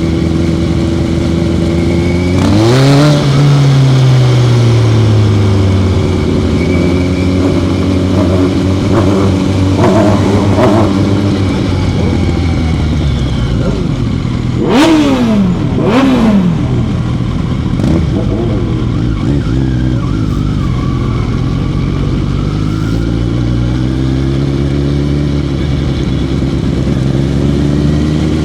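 Motorcycle engine running steadily under way. Its revs climb a few seconds in and ease back off, and there are two quick, sharp drops in pitch about halfway through.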